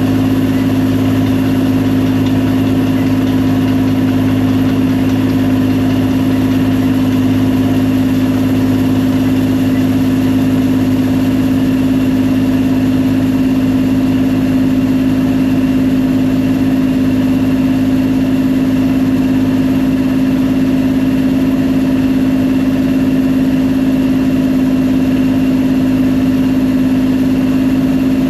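Combine harvester running steadily through a wheat field: a constant, loud machine drone with a strong steady hum that holds without change.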